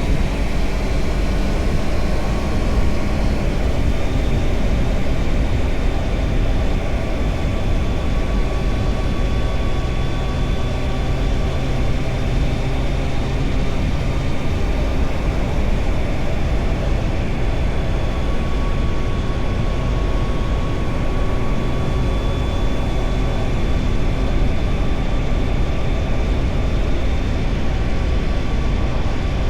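Triumph Tiger Sport 660's three-cylinder engine running steadily under way, its note drifting only a little in pitch, under a heavy low rumble of wind and road noise on the onboard camera microphone.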